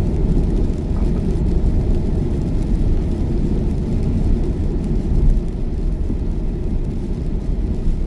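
Steady low rumble of tyre and road noise inside a Tesla's cabin at motorway speed. There is no engine note, as the car is electric.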